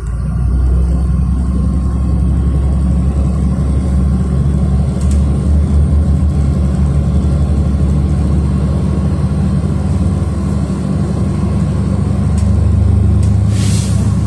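City bus heard from inside the passenger cabin while driving: a steady deep engine and road drone that swells a little near the end. A short hiss of air comes just before the end.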